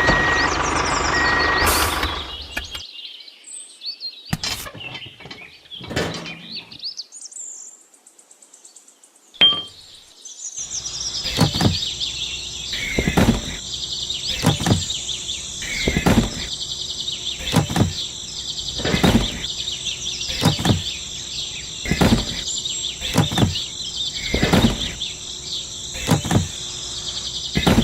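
Steady high-pitched outdoor chirping, starting about ten seconds in, with light knocks every second or so.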